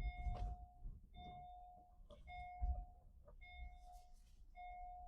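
Electronic beeper sounding a steady mid-pitched tone over and over, each beep just under a second long with a short gap, about one a second, over low rumble and a few dull thumps.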